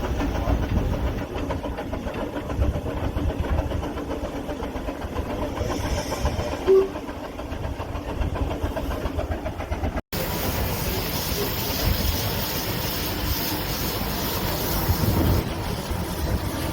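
Steam traction engine running, with a rapid exhaust chuff and steam hiss. There is a short sharp sound about seven seconds in and a brief dropout about ten seconds in, after which the hiss is stronger.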